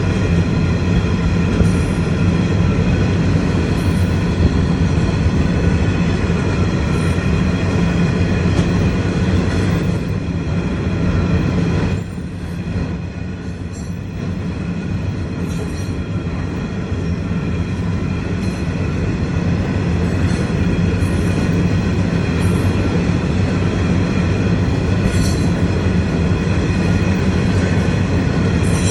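A long train rolling past: a steady rumble of wheels on rails with thin, steady high tones above it. The sound drops briefly about twelve seconds in, then builds back up.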